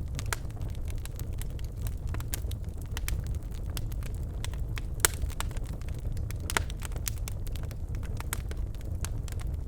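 Birch logs burning in a fireplace, crackling and popping irregularly over a steady low rumble of the fire. A sharp pop about halfway through is the loudest, with another a second and a half later.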